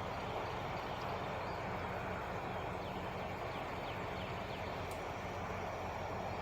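Truck engine idling with a steady low hum. A few faint short high chirps come through about three to four seconds in.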